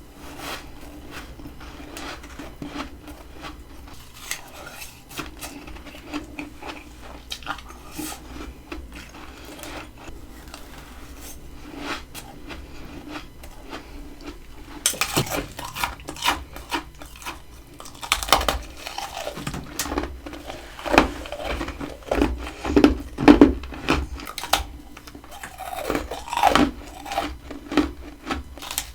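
Close-miked biting and chewing of humidifier-grown freezer frost. Soft crackling for the first half, then louder crunchy bites from about halfway.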